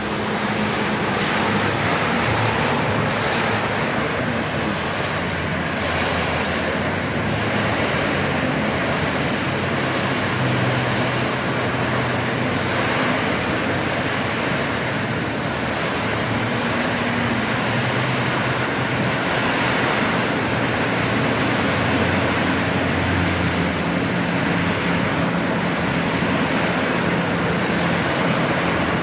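Heavy rain falling steadily, a dense unbroken hiss, with a faint low hum underneath.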